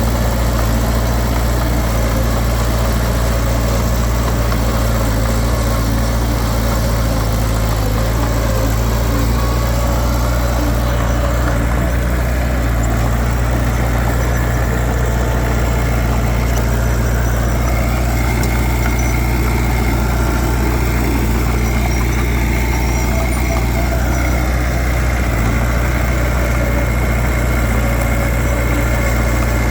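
Heavy diesel engine of earthmoving machinery running steadily at an even speed, with a deep, unchanging drone and no revving.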